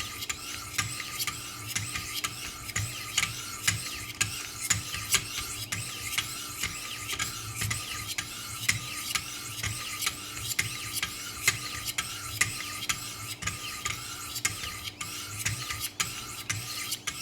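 Wicked Edge 600-grit diamond stones stroked along a knife edge: a steady run of short rasping strokes, a couple a second, stopping just before the end.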